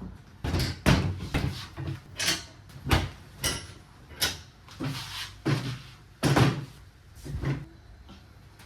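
A dozen or so sharp knocks and clunks in an irregular run, each with a short low thud, as of cupboard doors, drawers or hard objects being handled in a room.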